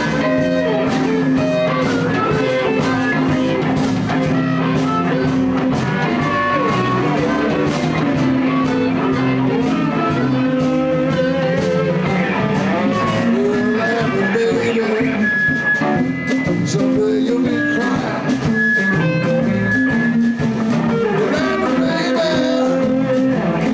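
Live blues band playing: electric guitars, bass and drum kit, with held high harmonica-like notes partway through.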